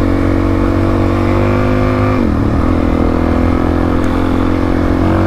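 Suzuki DR-Z400S single-cylinder four-stroke engine running under way on a gravel road, with a low rumble of wind and road noise. About two seconds in, the engine note drops briefly as the throttle is rolled off, then climbs back and holds steady.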